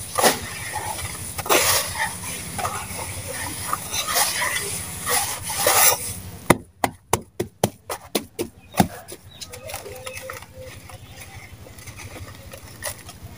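Dry sand-cement being crumbled in a tub: irregular gritty crunches, then a quick run of sharp cracks about seven to nine seconds in, fading to a faint crackle.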